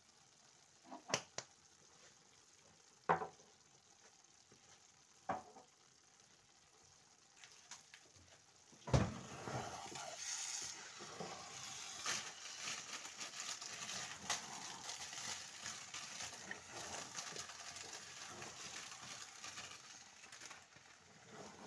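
A few sharp clicks, then about nine seconds in a loud knock, after which food sizzles and spits in a frying pan while a wooden spoon scrapes and stirs it.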